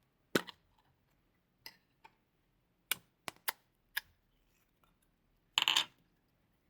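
Slime being handled, making a string of sharp pops and clicks, about seven spread over several seconds. Near the end comes one longer crackling burst.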